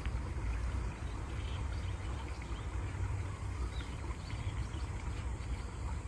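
Running water making a steady low rumble and rush, with faint bird chirps now and then.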